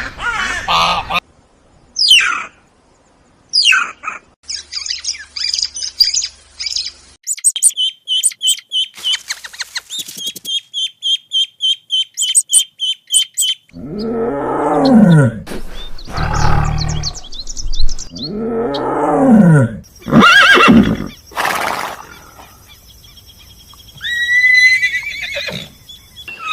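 A series of different animal and bird calls cut one after another. It runs from honking to quick high whistles and a fast, even chirping lasting several seconds. Then come two long, loud low calls that rise and fall in pitch, a few sharp clicks, and a short chirp near the end.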